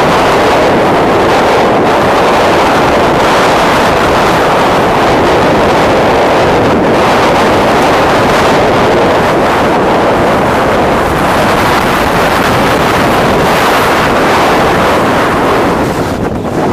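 Strong storm wind blasting across the camera's microphone: a loud, continuous rushing noise that eases briefly near the end.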